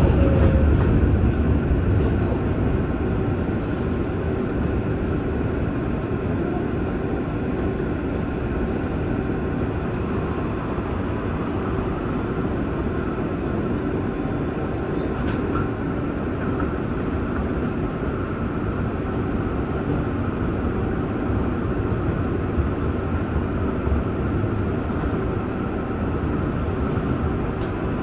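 R188 subway train on the 7 line running steadily: a continuous rumble of wheels on rail that eases a little over the first few seconds, with a few faint clicks.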